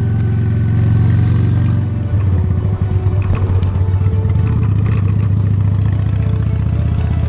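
Honda Steed V-twin motorcycle engine running under way, with a steady low note that turns uneven and choppy about two seconds in, alongside some rattling.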